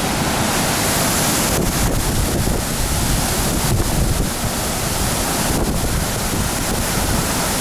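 Heavy, steady rush of a tall waterfall's water crashing down close by, with wind buffeting the microphone.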